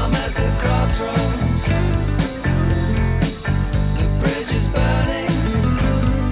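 Instrumental rock music: a steady bass line and drum beat under guitar.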